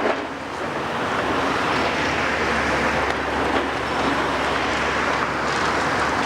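Heavy demolition machinery working: a steady, noisy din with a few faint knocks.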